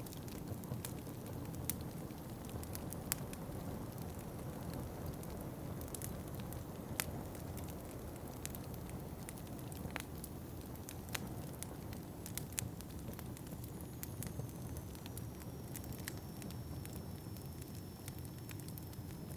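Wood fire crackling, with scattered sharp pops and snaps over a steady low rumble. A faint thin high whistle comes in about two-thirds of the way through.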